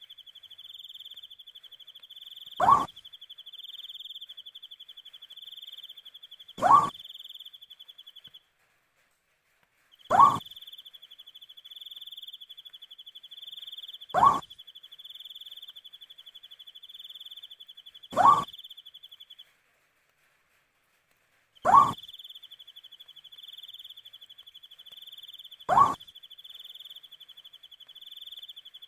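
An owl calling at night: a single short hoot that rises in pitch, repeated seven times about every four seconds. Behind it a cricket's steady high pulsing trill runs on, stopping twice for a second or two.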